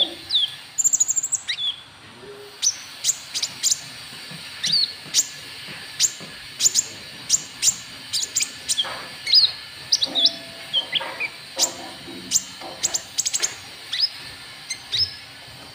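Konin trotol bird calling: a long run of short, sharp, high chirps, each dropping quickly in pitch, about two a second, with a fast trill about a second in.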